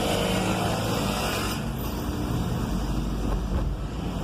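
Vehicle engine and road noise while driving in city traffic, with a hiss that cuts off suddenly about one and a half seconds in.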